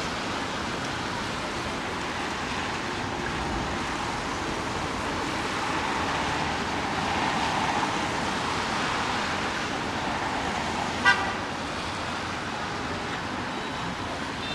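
Steady hiss of rain and traffic on a wet city street, swelling briefly about midway. About eleven seconds in, a vehicle horn gives one short toot, the loudest sound here.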